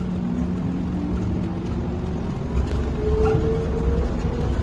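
Cabin noise inside a driverless elevated train on the move: a steady low rumble, with a motor whine that comes in after about three seconds and slowly rises in pitch.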